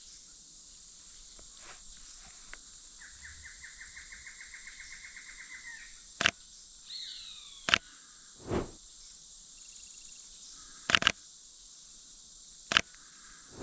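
Rainforest ambience with a steady high insect buzz. A bird's rapid trill comes about three seconds in and a falling call near seven seconds. Several sharp, loud clicks, likely a camera shutter, cut through it.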